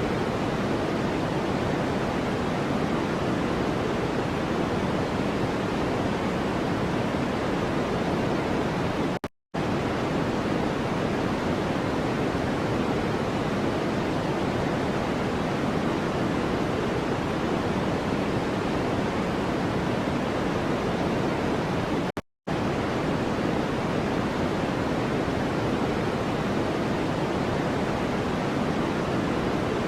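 Steady white-noise track, an even hiss weighted toward the low end like pink noise. It cuts to silence for a split second twice, about nine and twenty-two seconds in.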